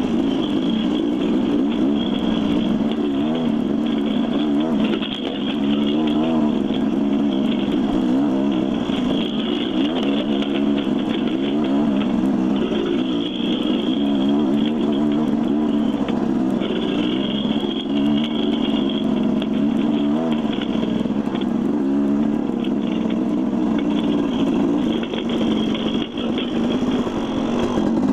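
Dirt bike engine running as it is ridden along a trail, its pitch wavering up and down with the throttle.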